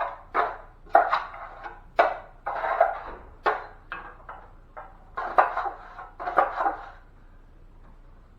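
Drywall knife scraping joint compound against a mud pan in quick, sharp strokes, about one or two a second, scraping out the last of the mud so none is wasted; the strokes stop about seven seconds in.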